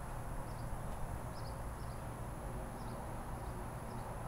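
Steady outdoor background noise with a small bird chirping, short high chirps every half second or so.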